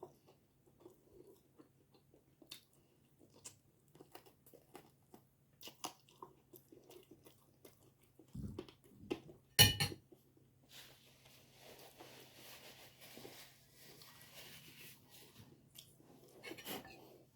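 Close-up chewing and mouth sounds of someone eating, with many small wet clicks. A single sharp clink about ten seconds in is the loudest sound, and a soft hissing stretch follows.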